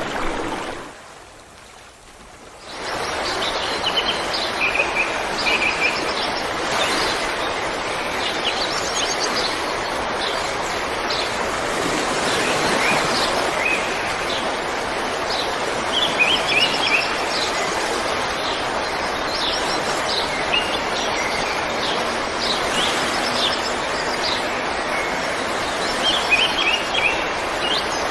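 River water running steadily, with many small birds chirping short calls over it. The whole sound dips sharply about a second in and swells back up just under three seconds in.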